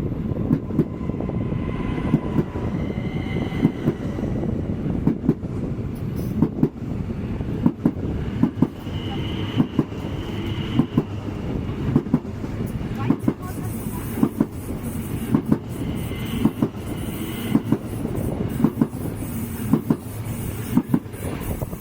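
A train rolling past on the station tracks, its wheels clacking over rail joints and points in repeated pairs of knocks above a steady rumble, with brief high wheel squeals now and then.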